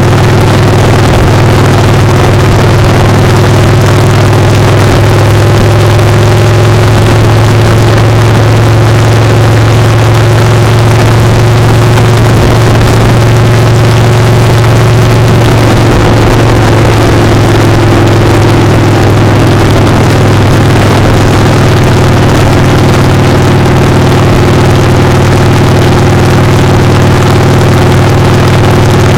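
Motorcycle engine running steadily at speed, heard close up from a camera on the foot peg, with a loud rush of wind and road noise over a deep, even hum.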